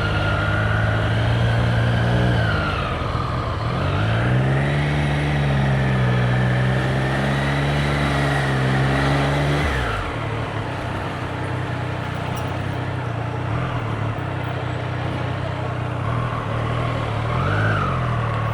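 Triumph Street Triple 765 RS inline-three engine running under way, picked up inside the rider's helmet. The engine note dips and climbs back up about three seconds in, then holds steady. About ten seconds in it fades lower, and it dips and rises again near the end.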